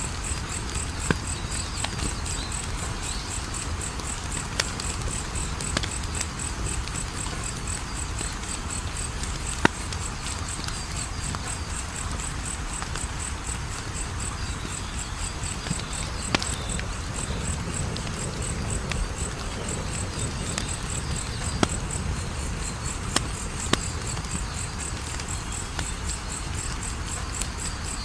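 Wood fire crackling, with scattered sharp pops over a low steady rush of flame, the loudest pop about ten seconds in. Through it runs a continuous high, evenly pulsed chirping.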